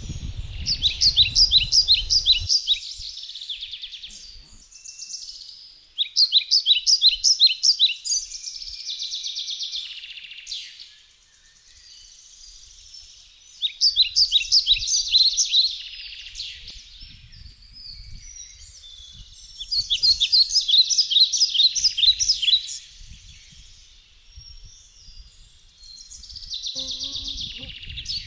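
A songbird singing: a rapid run of high notes about two seconds long, repeated about every six seconds, with fainter bird calls between the songs.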